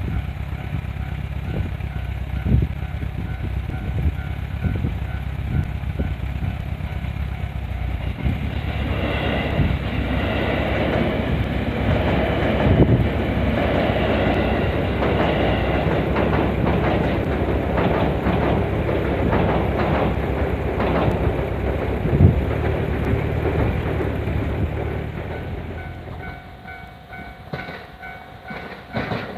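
An electric train passing over a level crossing, its wheels clattering on the rails, loudest from about a third of the way in and dying away near the end. Near the end a level-crossing warning bell is heard ringing on its own.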